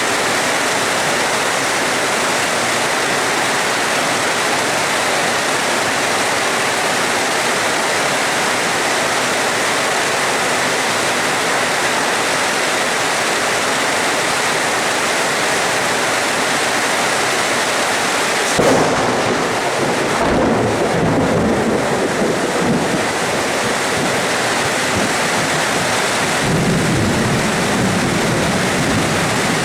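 Steady heavy rain hissing. About two-thirds of the way through, thunder cracks suddenly and rumbles for several seconds, and another low roll of thunder comes near the end.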